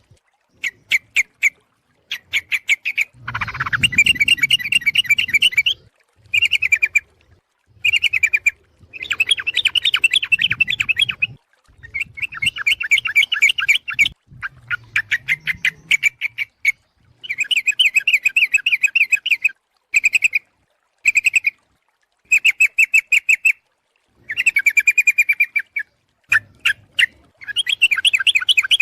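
Yellow-vented bulbul (trucuk) calling in bursts of rapid, chattering notes, each burst a second or two long with short gaps between, repeated over and over. This is the busy calling used as a lure to draw other trucuk in, which the uploader calls a female calling the male.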